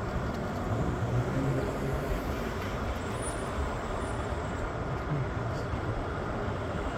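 Steady low rumble of vehicle noise, with no single event standing out.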